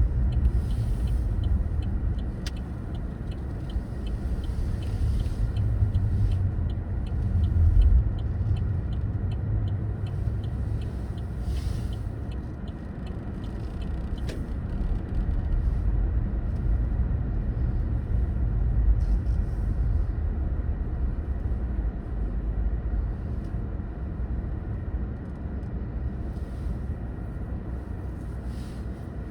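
A car being driven: a steady low rumble of engine and road noise that swells and eases in loudness, with brief passing hisses now and then.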